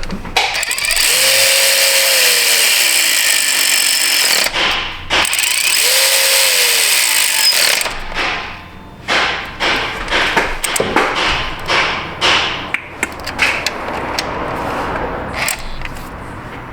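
Small cordless power tool running bolts down in two runs of about three seconds each, its whine dropping in pitch at the end of each run. Scattered clicks and knocks of hand tools follow.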